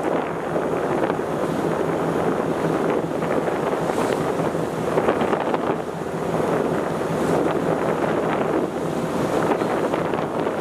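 Wind buffeting the microphone aboard a ferry under way, with rushing sea water and a steady low hum from the ship beneath it, swelling and easing in gusts.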